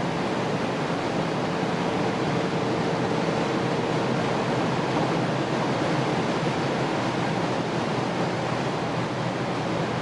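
Steady road and wind noise inside the cabin of an Audi A7 50 TDI driving at speed, with a faint steady hum that fades out about four seconds in.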